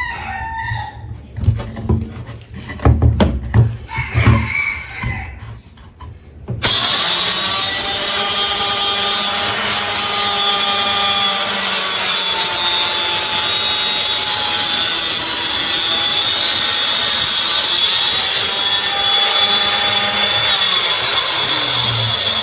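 A few irregular knocks and clatter, then about seven seconds in a circular saw starts abruptly and runs loud and steady, cutting wood, its whine shifting slightly in pitch as the cut goes on.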